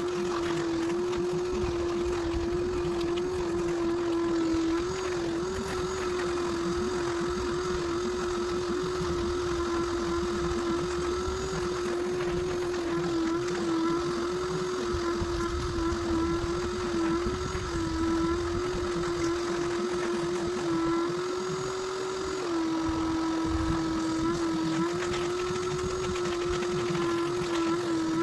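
A small electric motor running steadily with a humming whine whose pitch wavers slightly and briefly rises about three-quarters of the way through.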